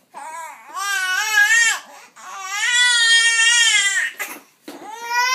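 A baby crying in three long, drawn-out wails, each held for well over a second with short breaths between them.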